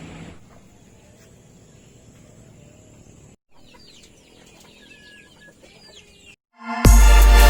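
Chickens clucking faintly over quiet farmyard ambience, with a brief dropout about halfway through. Loud electronic music starts abruptly near the end.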